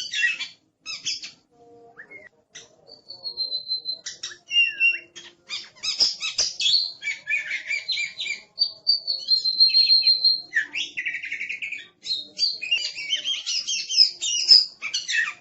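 Oriental magpie-robin (kacer) in fierce, full song: a loud, varied run of sharp chattering notes, quick slurred phrases and high held whistles, broken by brief pauses.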